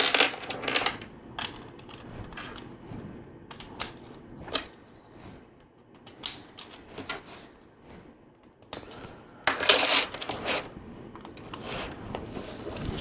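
Plastic LEGO pieces clicking and rattling as they are handled and snapped together, in scattered small clicks with a louder spell of rattling about nine to ten seconds in.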